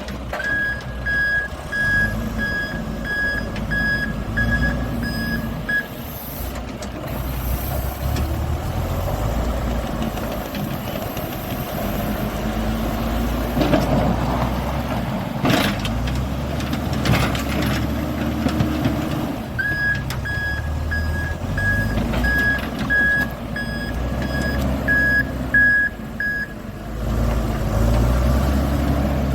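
Tractor backhoe's diesel engine working under load, with its reversing alarm beeping about twice a second for several seconds near the start and again for several seconds later on. The engine revs up briefly near the middle, with a sharp metallic clank.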